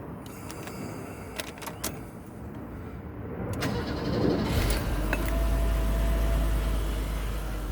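1992 Mercedes-Benz 300 GE's 3.0-litre straight-six started from cold: a few sharp clicks, then a moment of starter cranking before the engine catches about five seconds in and settles into a steady, low-pitched idle.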